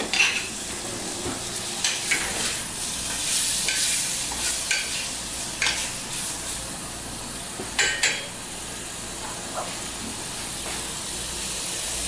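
Chicken skins sizzling as they fry and render into chicken oil in a pan. A utensil stirs and scrapes against the pan now and then.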